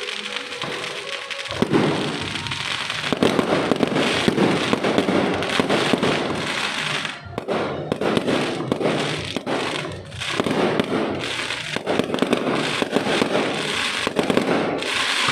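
Fireworks going off: a dense, continuous crackle of many rapid pops and bangs that starts suddenly about a second and a half in, with short lulls in the middle.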